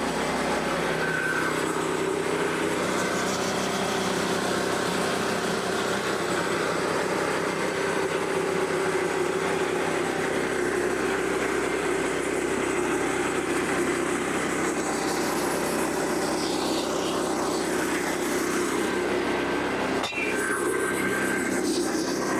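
Portable bandsaw mill's small gasoline engine running steadily under load as the blade cuts through a white oak log, with a brief sharp click about twenty seconds in.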